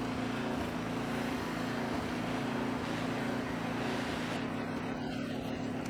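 A steady engine drone with a constant low tone. A higher hiss over it drops away about four seconds in.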